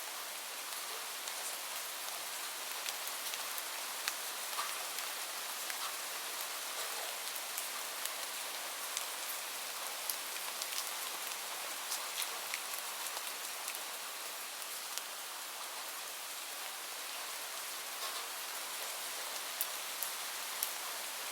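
Steady rain falling, an even hiss with individual close drops ticking sharply at irregular moments.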